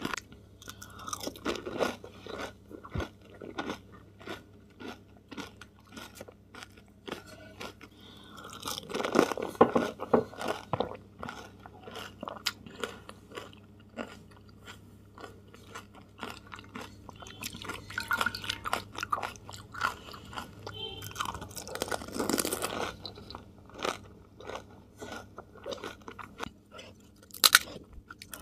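Close-up chewing and crunching of pani puri: crisp puri shells filled with mint water, bitten and chewed in a steady run of small crackles. Twice the crunching grows denser and louder for a second or two, and there is one sharp crack near the end.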